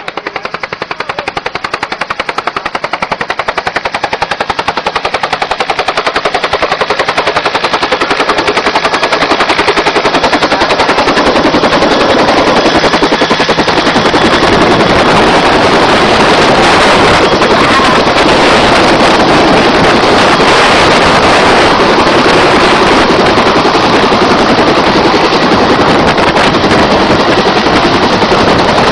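Helicopter rotor chopping in a fast, even rhythm, growing louder over the first ten seconds or so, then holding loud and steady.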